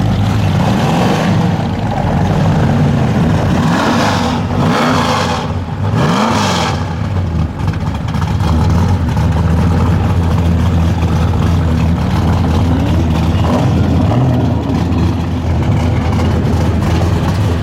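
American muscle cars' V8 engines rumbling at low speed, with one engine revved up and down a few times around four to seven seconds in.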